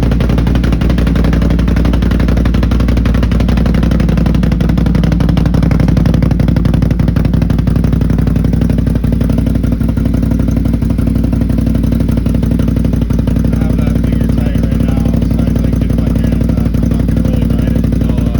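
A 2021 Can-Am Outlander 570 ATV's Rotax V-twin idling steadily through a newly fitted Big Gun slip-on exhaust.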